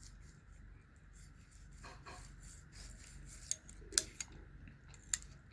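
Feeler gauge blade sliding and scraping between a straight edge and a cylinder head deck, with a few light metallic ticks. The gauge passing through easily marks a gap under the straight edge: the head is warped.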